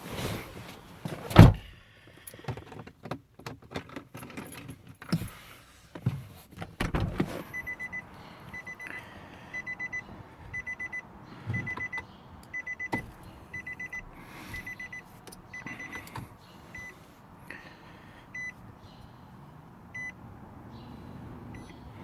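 A car door shuts with a loud thud about a second in, followed by clicks and handling noises, then the 2011 Nissan Maxima's warning chime beeps repeatedly at a high pitch in quick pairs and runs, with the engine not yet started.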